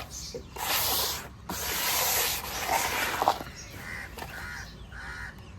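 Chalky white cement pieces crumbling and breaking up in water, two gritty, crackling, hissing stretches with small clicks. Several short calls repeat evenly near the end.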